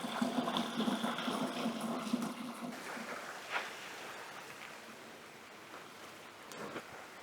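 Small woodland stream running and gurgling, fading after about three seconds. Then a few short snaps or cracks, like twigs underfoot.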